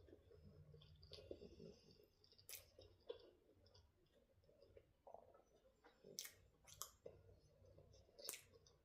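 Near silence, broken by faint chewing and a few sharp, wet mouth clicks from someone eating a pork dumpling up close to the microphone.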